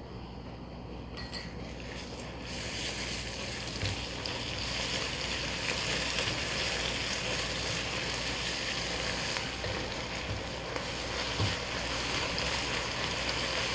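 Fried onions with ginger-garlic paste sizzling in hot oil in a pot as they are stirred with a silicone spatula. The sizzle swells about two seconds in, once the paste is worked into the oil, and then stays steady with a few soft knocks of the spatula.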